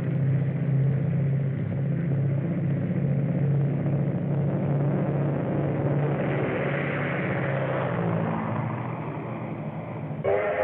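Propeller aircraft engine droning steadily, fading a little toward the end. Just before the end the sound cuts to a steam locomotive whistle.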